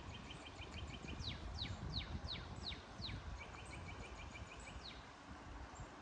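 Bird song over the steady wash of a flowing creek and a low rumble. It begins with a quick run of short high notes, about eight a second, then six falling whistles, about three a second. The run of short notes comes back near the middle, and one more falling whistle sounds near the end.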